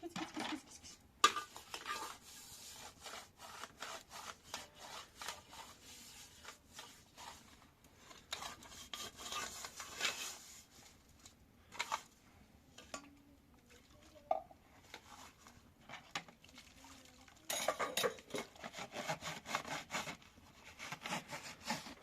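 Irregular rubbing and scraping with scattered light knocks and clinks, coming in busier spells separated by quieter stretches.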